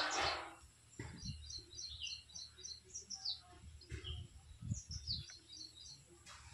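Small birds chirping in the background: a quick run of short high chirps, a few falling notes, then another run of chirps. A few faint low knocks come in between.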